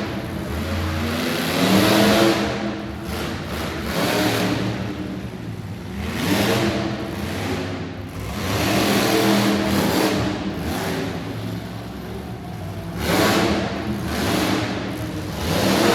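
Mud truck engine revving hard, its pitch climbing and dropping as it surges and eases off several times.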